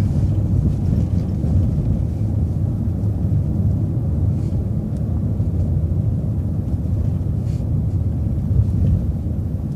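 Transit bus driving along, heard from inside the cabin: a steady low engine and road rumble, with a couple of faint light knocks.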